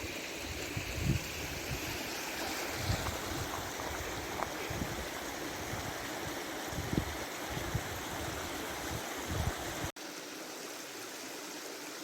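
Mountain stream rushing steadily over rocks, with irregular low thumps on the microphone that stop after a brief break near the end.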